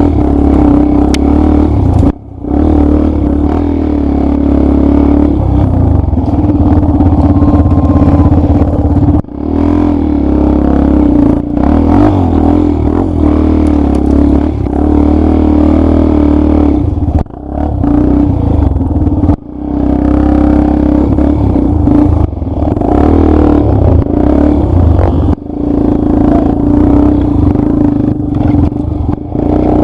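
Dirt bike engine running under way on a trail. Its sound dips sharply for a moment about five times.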